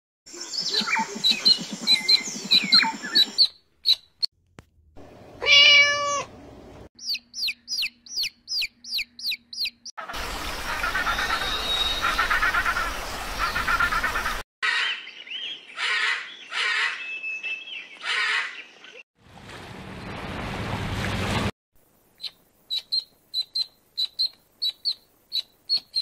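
A string of short animal-call clips joined by abrupt cuts. Young birds peep at the start and again over the last few seconds, a high peep about twice a second. Other calls come in between: a pitched call, a run of quick downward chirps, and a noisy pulsing stretch.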